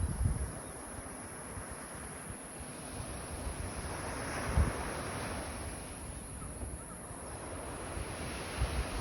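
Sea waves washing on the shore, with one wave swelling and breaking about halfway through, and wind buffeting the microphone near the start and end.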